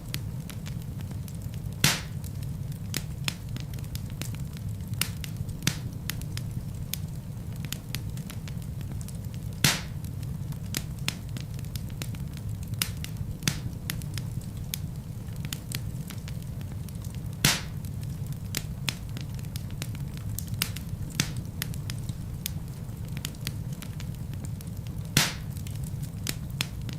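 Wood fire burning in a fireplace: a steady low rumble of flames with frequent irregular crackles and a few louder pops from the burning logs.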